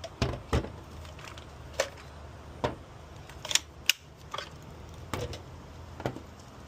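Irregular clicks and knocks, about a dozen over several seconds, from the plastic parts of a Dyson stick vacuum being handled and taken apart.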